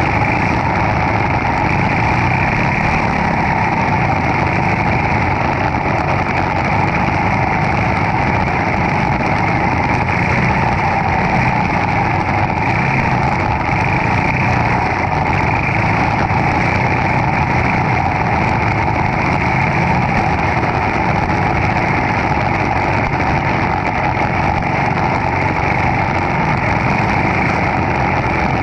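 Racing kart's Briggs & Stratton Animal single-cylinder engine running at race speed, heard onboard as a loud, steady drone with no pauses.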